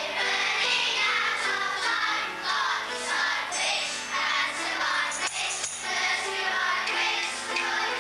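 Group of children singing together over musical accompaniment.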